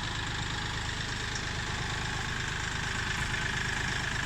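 Kioti CK3510 compact tractor's three-cylinder diesel engine running steadily as the tractor is driven slowly on its hydrostatic transmission, getting slightly louder toward the end.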